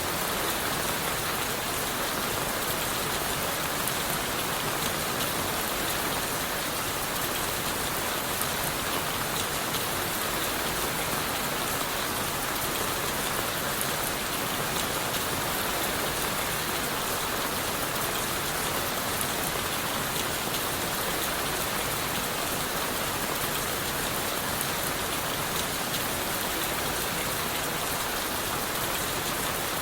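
Steady rain falling on leaves, wood and the forest floor, an even patter of many drops that holds unchanged throughout.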